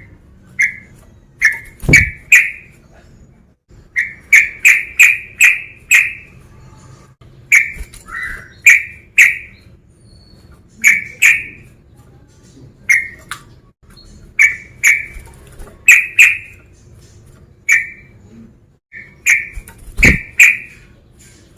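Yellow-vented bulbul (trucukan) singing: loud, short bubbly notes delivered in quick clusters of two to five with brief pauses between, the male's calling song used to provoke other trucukan. Two low knocks sound, about two seconds in and near the end.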